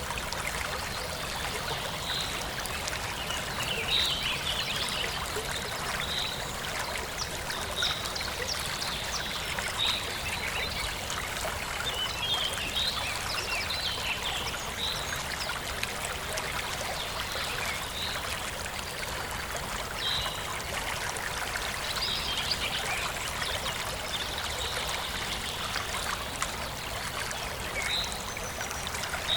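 Forest stream flowing and trickling steadily, with a bird repeating a short high call about every two seconds and a few quick runs of chirping over the water.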